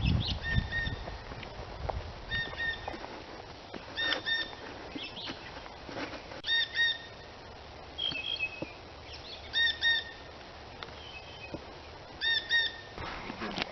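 A bird calling over and over in short paired notes, a pair every one to three seconds, with a few other quick chirps in between.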